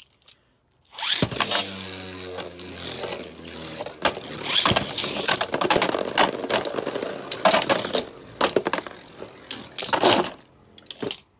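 Beyblades launched into a plastic stadium about a second in. They spin with a low hum and clash over and over with sharp clacks and knocks. The clashing stops about ten seconds in as one top is knocked out.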